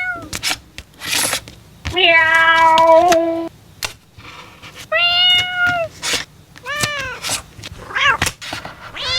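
A domestic cat meowing repeatedly, about five meows. The longest is a drawn-out, level meow of about a second and a half starting about two seconds in. Sharp light clicks fall between the meows.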